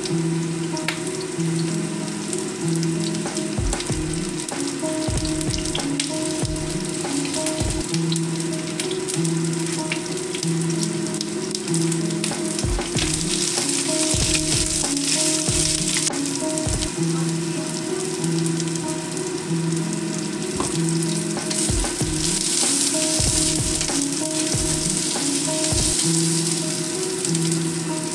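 Sliced onions frying and sizzling in a steel wok over a gas flame, stirred with a wooden spatula, with dull knocks now and then. The sizzle grows louder about 13 seconds in and again a little after 20 seconds. A repeating pattern of low steady tones runs underneath.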